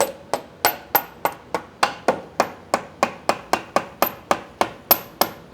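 Rubber mallet tapping a motorcycle swingarm pivot shaft through its bore in an even run of about twenty short blows, roughly three and a half a second, each with a brief high ring.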